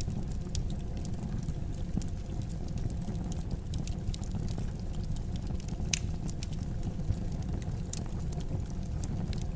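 Wood fire burning in a fireplace: a steady low rumble of flames with scattered small crackles and pops, one louder pop about six seconds in.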